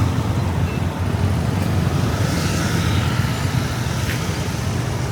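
Street traffic: a steady low rumble of motor vehicles, with the hiss of a passing vehicle rising about two to three seconds in.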